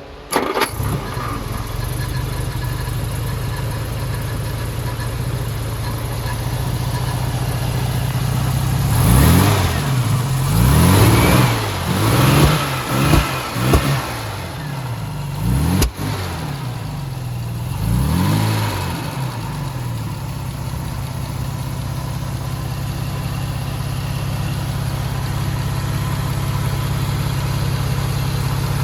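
A 1958 Jaguar XK150 SE's twin-cam straight-six fires up suddenly and settles into a steady idle. It is revved several times between about 9 and 14 seconds in and once more around 18 seconds, each rev rising and falling back, then idles steadily again.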